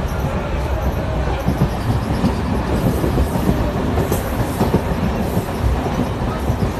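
Passenger train running, heard from inside the coach: a steady rumble with occasional knocks.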